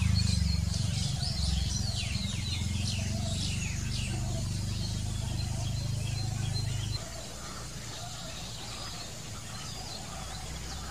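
Many birds chirping in quick, falling notes, thickest in the first four seconds, over a low rumble that drops away sharply about seven seconds in.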